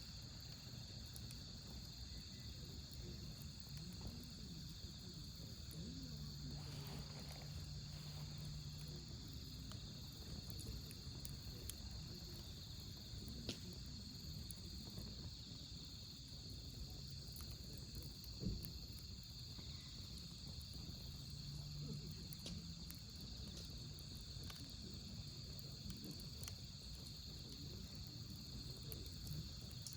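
Autumn-night crickets chirping steadily, with a wood fire crackling, a sharp pop about eighteen seconds in. A faint low hum comes in twice.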